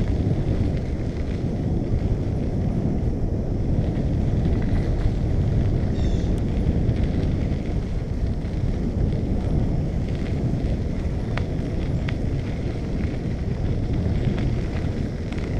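Steady low rumble of wind buffeting the microphone and tyre noise from a bicycle rolling along, with a few faint clicks and a brief high chirp about six seconds in.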